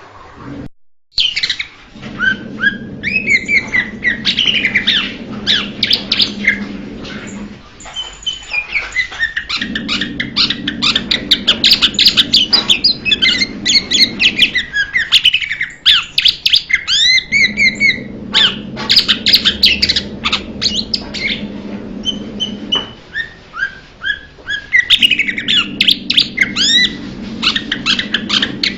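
Blue-winged leafbird song: fast, varied chattering phrases of sweeping, chirping whistles, repeated almost without pause. A low steady hum sits underneath, coming and going every few seconds, and the song drops out briefly about a second in.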